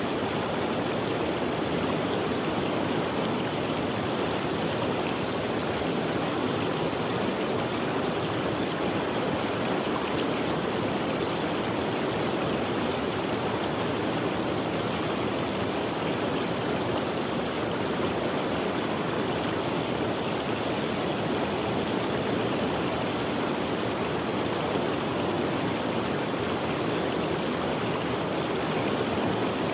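Steady rushing of a stream of running water, with no breaks or changes.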